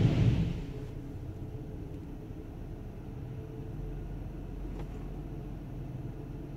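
Minivan engine idling, heard from inside the cabin as a steady low hum. A louder rushing noise at the very start dies away within about half a second.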